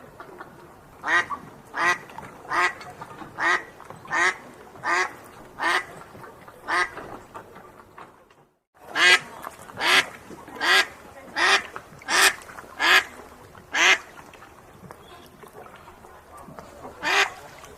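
A duck quacking in a regular series, about one quack every three-quarters of a second. The sound drops out briefly about eight and a half seconds in, the quacks resume at the same pace, then pause before two more near the end.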